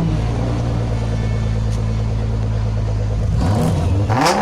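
A car engine running at a low steady rumble, then revving up with a rising pitch about three and a half seconds in.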